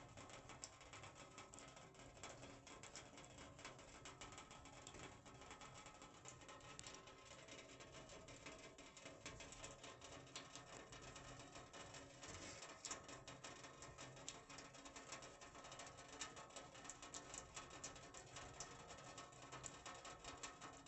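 Rain falling on a sheet-metal roof: a steady, faint patter of many fine drop ticks on the metal.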